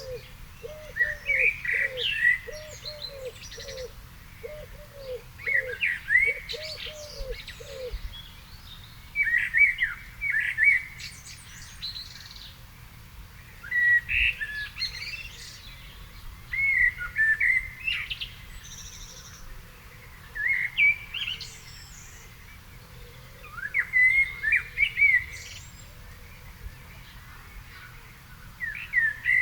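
Birdsong: a songbird sings short warbling phrases, one every three to four seconds. Behind it, another bird gives low, evenly repeated cooing notes that stop about eight seconds in.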